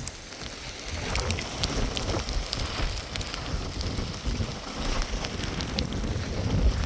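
Steady rain falling on a surface, with many sharp drop ticks and a low rumble underneath.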